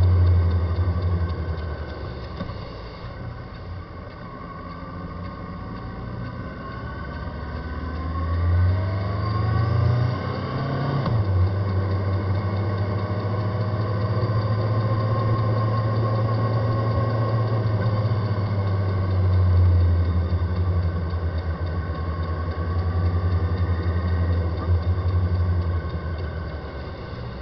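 Yamaha FZ6 S2 inline-four motorcycle on the move. The engine climbs in speed for a few seconds, drops sharply about eleven seconds in, then runs steadily. The ride carries an abnormal noise from the front wheel, which the owner puts down to a wheel bearing problem.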